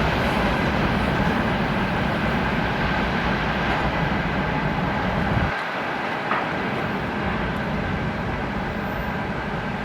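A train rolling past on the rails, with a dense rumble and rushing of wheels. The deep part of the rumble cuts off sharply about halfway through, leaving a quieter rushing noise.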